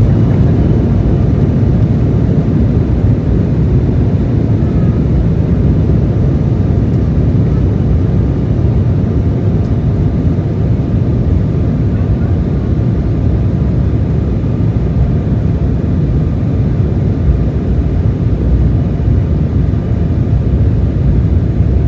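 Embraer E175's twin CF34-8E5 turbofan engines at takeoff thrust, heard inside the cabin behind the wing: a loud, steady rumble with a faint engine whine.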